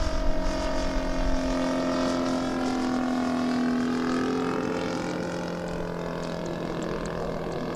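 Saito FG-50 petrol engine on a radio-control aerobatic plane in flight, a steady propeller drone. Partway through, its pitch slides slowly lower and the sound fades a little, as the plane draws away or throttles back.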